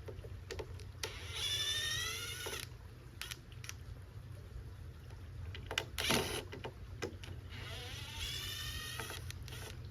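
Two long squeals, each about a second and a half, of nails being pried out of wooden boards, with sharp knocks of wood and tools in between.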